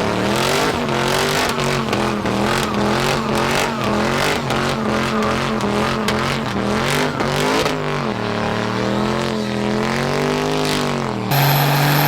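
Diesel truck engine revving hard, its pitch rising and falling over and over with crackling through the noise. About eleven seconds in it cuts abruptly to a steadier engine note.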